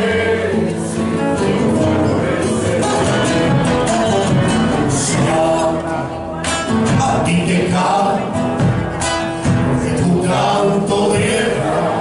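Argentine folk song: a vocal group singing with instrumental accompaniment.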